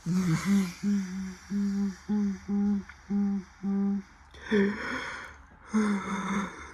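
Washing machine motor driving the wash in short, evenly spaced pulses, about two a second, each a brief hum at the same pitch that swoops up as it starts and down as it stops, as the drum or pulsator is turned back and forth. A couple of splashing hisses of water come between pulses later on.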